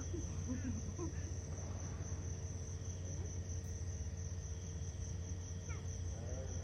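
Night insects trilling: a continuous, steady high-pitched drone without a break, over a low steady hum.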